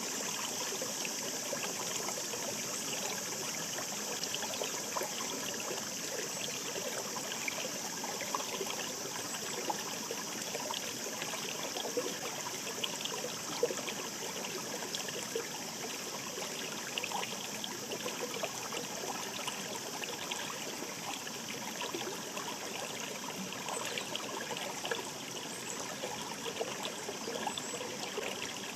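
Shallow mountain stream murmuring: a steady rush of running water laced with small trickles and splashes.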